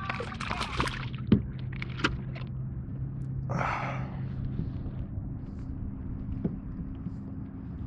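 Knocks and thumps of gear being handled aboard a kayak: two sharp knocks in the first two seconds, then a short rushing noise about three and a half seconds in, over a steady low hum.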